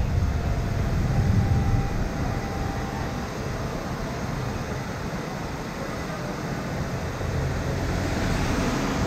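Steady rushing roar of torrential rain and a waterfall in flash flood, with wind buffeting the microphone, heavier during the first two seconds.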